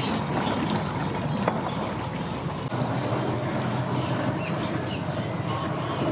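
Boat engine running steadily, a low rumble.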